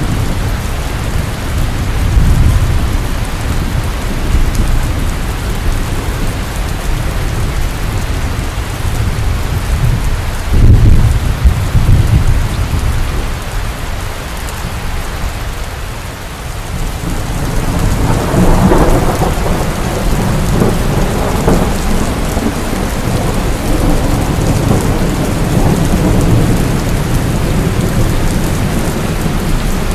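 Heavy rain falling steadily with rolling thunder: rumbles swell about 2 and 11 seconds in, ease off mid-way, then a long roll of thunder builds from about 18 seconds and rumbles on to the end.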